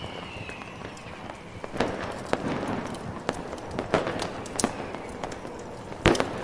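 Fireworks popping at irregular intervals over a steady hiss, with the loudest bang about six seconds in. A faint, slightly falling whistle sounds at the very start.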